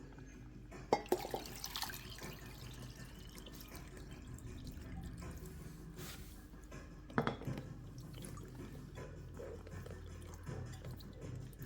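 Water dripping and trickling from a pet water fountain, with a couple of light clicks and knocks about a second in and again about seven seconds in.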